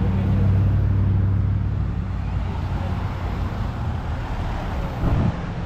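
A car engine running at low revs as the vehicle passes, its steady low hum loudest in the first second or two and then fading away, with a brief louder sound about five seconds in.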